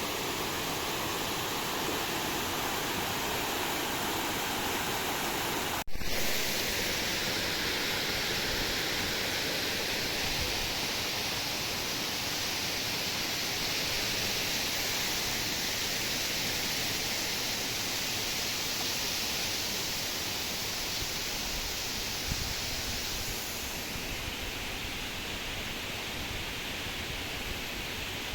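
Steady rushing water, a constant hiss with no rhythm. About six seconds in it breaks off for an instant and returns brighter and higher.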